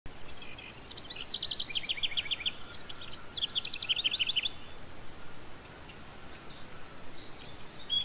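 Small birds chirping: two quick trilled runs of rapid high notes in the first half, then fainter chirps, over a steady hiss.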